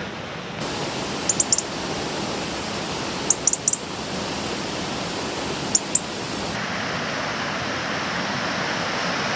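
Steady rushing of the Falls of Bruar waterfall, growing a little louder over the last few seconds. Three short clusters of brief high chirps sound over it.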